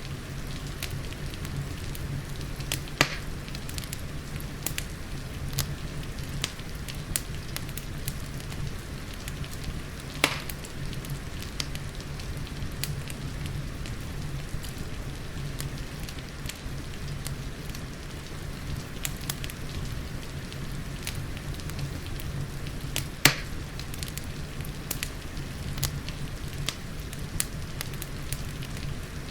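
Fireplace wood fire crackling, with frequent sharp snaps and three louder pops, over a steady hiss of rain and a low steady rumble.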